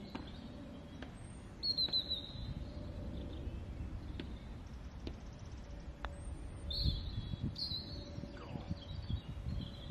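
Small songbirds singing in short, high chirping phrases, a few times over, above a low, uneven background rumble.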